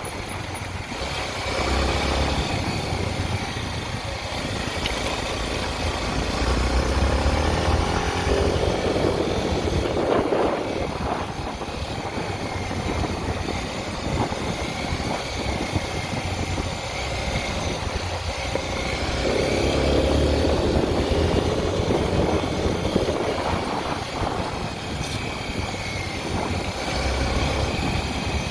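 Honda XR 250 Tornado's air-cooled single-cylinder four-stroke engine running under way, its sound swelling and easing several times with the throttle.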